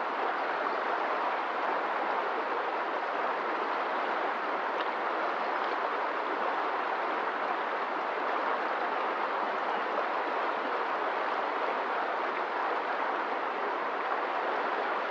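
Flowing water making a steady, even rush with no breaks or single splashes.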